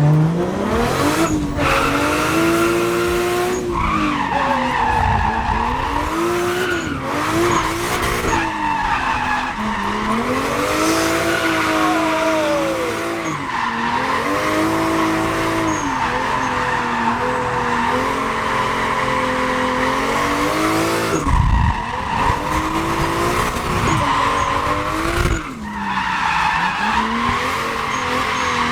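Toyota 1UZ 4.0-litre V8 in a drift car revving hard up and down through a lap, with tyres squealing steadily through the slides. The engine note rises and falls over and over, and drops off sharply a few times.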